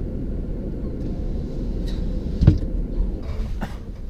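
Steady low rumble of a truck heard from inside the cab, with one sharp thump about two and a half seconds in and a few fainter knocks after it.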